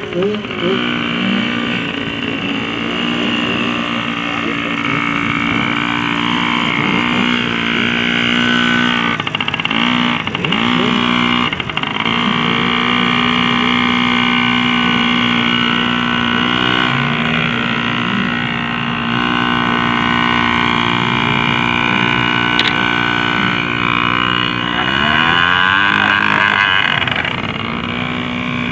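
Small off-road motorcycle engine running steadily, with a few short rises in revs about a third of the way in and again near the end, as the bike is worked up a steep dirt hill.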